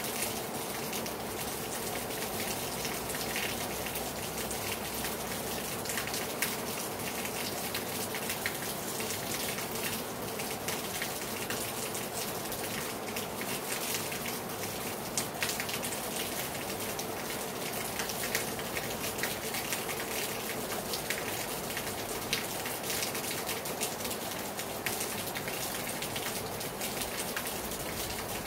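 Heavy rain falling hard on a terrace: a steady hiss of rain with many sharp drips and patters of drops striking the surface.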